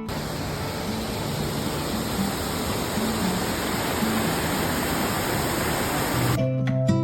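Steady rush of falling water, as from a waterfall, with faint guitar music beneath. Near the end the noise cuts off and plucked acoustic guitar music comes back in loudly.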